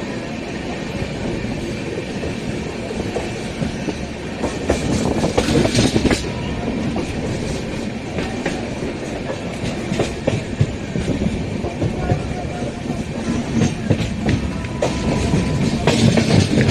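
Passenger train rolling along the platform, its wheels clacking over the rail joints, with louder passages of clatter about five seconds in and near the end.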